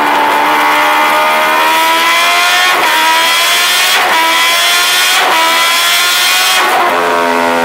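Kawasaki Ninja H2R's supercharged inline-four engine accelerating hard through the gears, its pitch climbing steadily with a brief break at each of about four upshifts. It settles to a lower, steadier note near the end.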